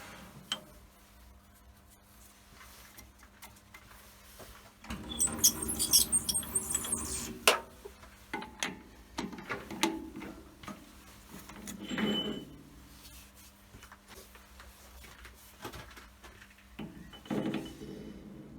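Irregular clicks, knocks and short scrapes of metal tools and parts being handled at a benchtop lathe, with a faint steady hum underneath; the busiest clatter comes about five to eight seconds in, with more around twelve and seventeen seconds.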